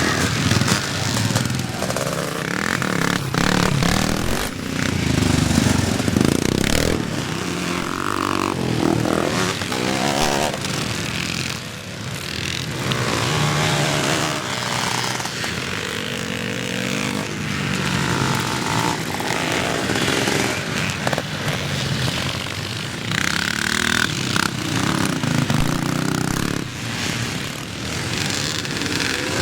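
Several classic and twinshock motocross bikes racing, their engines revving up and down over and over as they pass and overlap.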